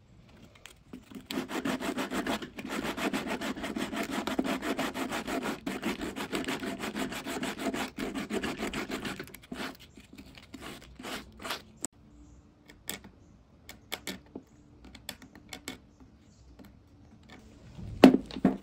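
Fast back-and-forth strokes of a hand tool working across wood for about eight seconds. Then scattered light taps and clicks, and one sharp knock near the end.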